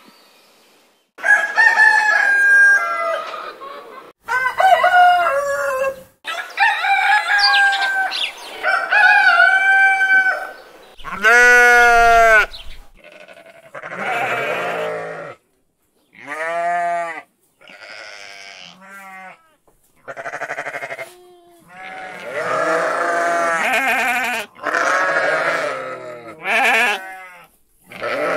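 A run of different animal calls one after another: about a dozen separate pitched cries and bleats, each a second or two long, with short gaps between them.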